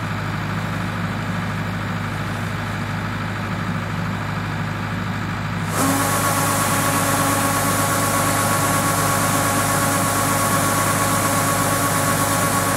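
Yanmar YH700 rice combine harvester's diesel engine running steadily. About six seconds in, the sound suddenly gets louder and brighter, and a steady whine joins it.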